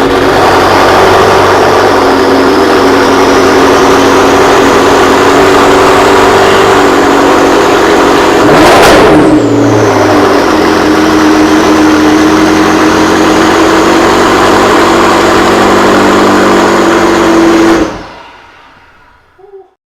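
McLaren 650S twin-turbo V8 running at a steady fast idle through a titanium exhaust, loud and even. About halfway through it gives one brief sharp blip of revs, then settles back. Near the end it is switched off and cuts out suddenly.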